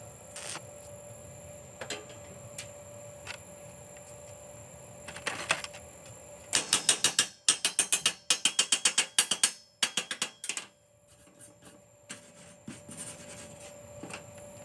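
Scattered single mechanical clicks, then a fast run of sharp ratchet-like clicks, about eight a second, lasting a little over three seconds, over a faint steady high hum.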